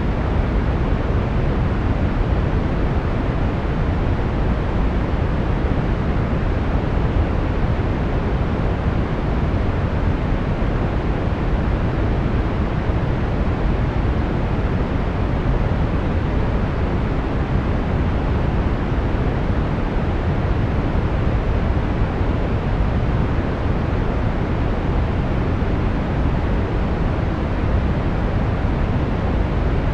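Steady brown noise: an even, unbroken rumbling hiss, strongest in the lows and falling away toward the highs.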